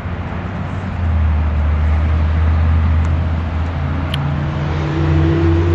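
A motor vehicle running close by: a steady low rumble, with a faint hum joining in during the second half.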